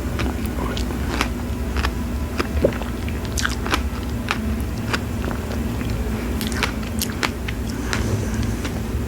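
Close-miked mouth sounds of someone chewing fresh strawberries with whipped cream: irregular wet clicks and squelches several times a second, over a steady low rumble.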